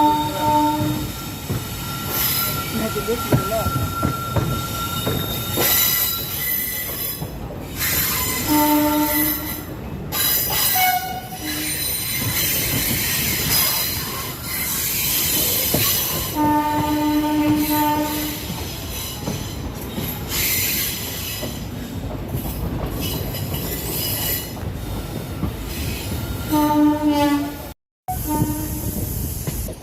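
Train horn blowing several times, mostly short blasts with one longer blast in the middle, over the continuous rumble and wheel noise of a moving train. A thin steady squeal runs through the first few seconds.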